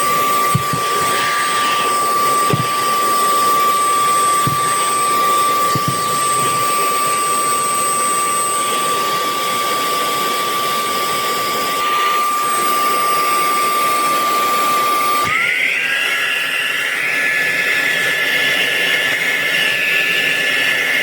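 Cordless handheld vacuum cleaner running steadily with a high motor whine; about fifteen seconds in the whine rises in pitch as the motor steps up to a higher speed setting. A few soft knocks come in the first six seconds, and the sound cuts off abruptly just before the end.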